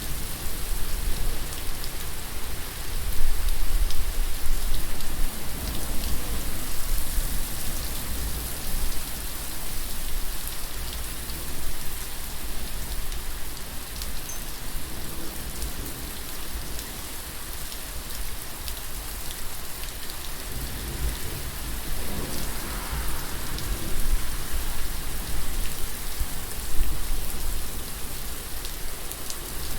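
Steady rain falling, with a deep low rumble underneath. It swells louder a few seconds in.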